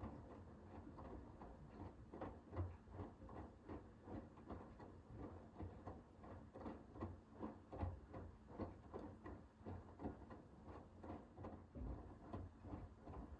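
Hoover H-WASH 500 front-loading washing machine tumbling its load during the wash phase of a Cotton 60 cycle: a quiet, irregular run of soft thumps and clicks, a few a second, as the laundry and water drop inside the turning drum.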